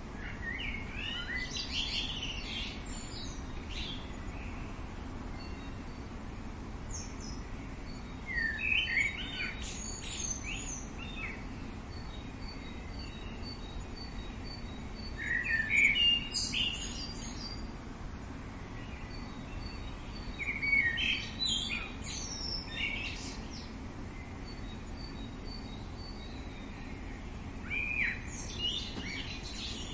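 A songbird singing short bursts of quick, varied chirps, repeated about every six or seven seconds, over steady outdoor background noise. A faint, thin, rapidly pulsing high note sounds in the gaps between phrases.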